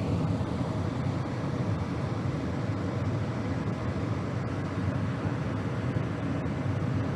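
Gas furnace running with its inducer motor and burners on: a steady, even rumble and whoosh.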